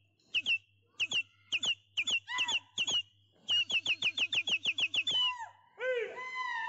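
A bird chirping: quick runs of short, high, falling chirps in bursts, then a few lower falling notes near the end.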